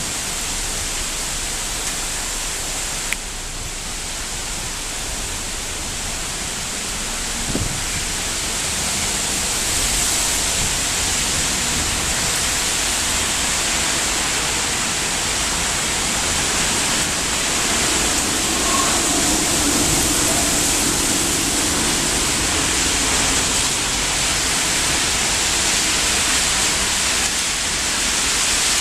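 Typhoon wind and heavy rain: a loud, steady rush of noise that swells slightly about ten seconds in and again near eighteen seconds. A single sharp click about three seconds in.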